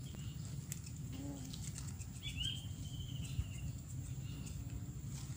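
A bird gives a drawn-out whistled note about two seconds in, over a steady high insect whine and a few faint clicks.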